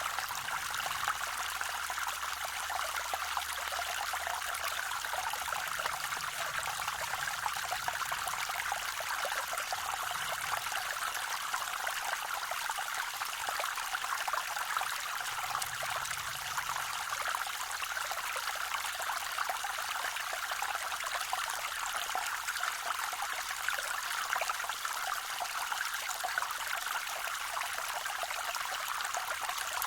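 A small waterfall on a forest creek: water splashing and trickling over rocks in a steady, even rush.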